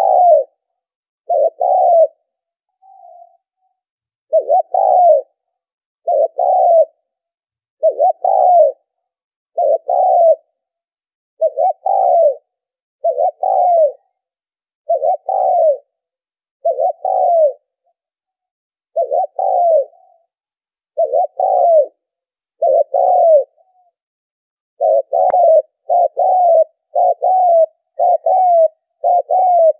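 Spotted dove cooing: a call repeated about every two seconds with silence between, quickening to shorter calls about once a second near the end.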